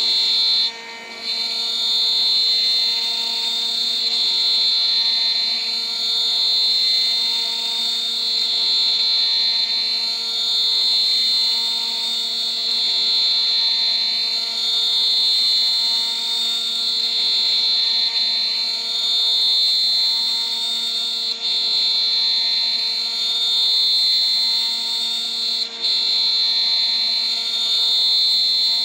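CNC router spindle at 14000 rpm driving a 3 mm three-flute end mill through a milling pass, a steady high-pitched whine. Its level rises and falls every couple of seconds as the cutter moves along the toolpath. The sound drops out briefly three times.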